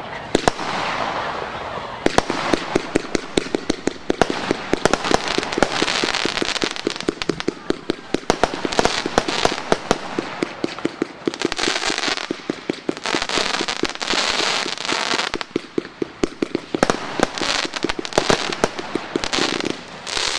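Royal Party Fireworks 'Blizzard' firework going off: a fast, dense string of crackling pops and bangs over a steady hiss, thickening and thinning in waves.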